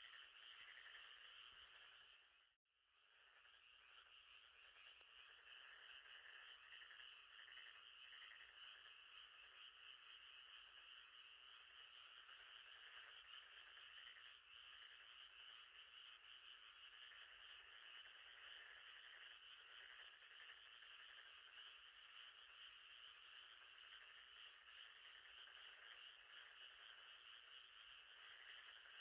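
Faint, steady night chorus of frogs calling by a lake, a dense shimmering trill. It cuts out for a moment about two and a half seconds in, then carries on unchanged.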